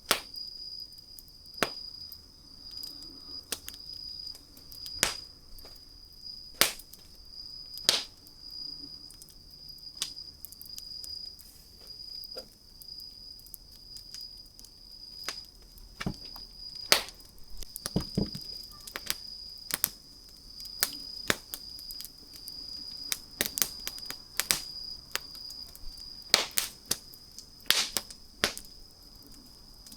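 Wood fire crackling: irregular sharp pops and snaps, several every few seconds, over a steady high-pitched tone.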